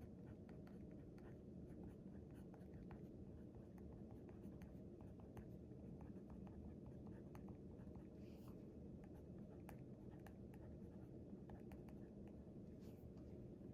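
Faint writing on paper: many small scratches and taps of the writing tip as strokes are made, with two brief rustling swishes about eight and thirteen seconds in, over a steady low room hum.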